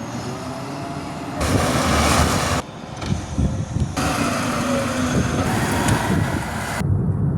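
Garbage truck engine running, with a rushing hiss over it that cuts in and out abruptly several times.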